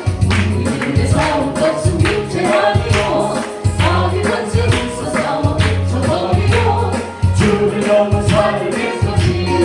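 Korean gospel praise song: voices singing over band accompaniment with a steady beat and a bass line.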